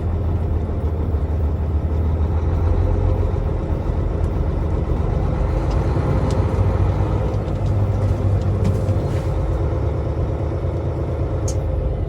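Volvo semi-truck's diesel engine running at low revs while the truck reverses, a steady low drone that swells a little in the middle.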